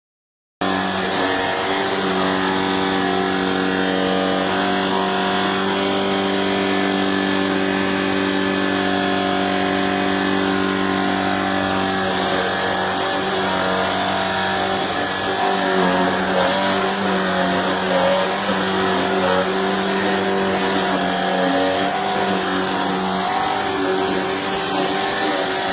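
Shark cordless stick vacuum's motor running, a steady pitched hum-whine that starts abruptly just after the start. Its pitch and level waver in the second half.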